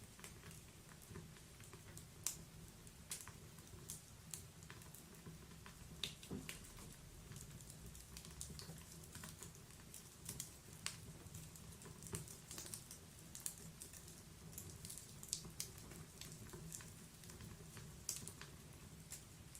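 Log fire crackling in a wood-burning fireplace: irregular sharp pops and snaps, a few of them louder, over a steady low rumble.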